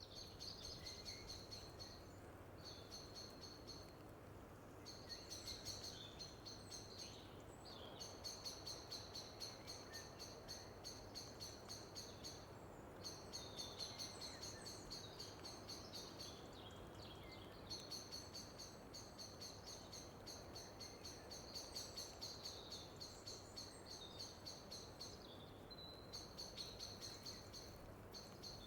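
Faint, high-pitched, rapid chirring trills from a bird, repeating in runs of a few seconds broken by short pauses, over a soft hiss and a low steady hum.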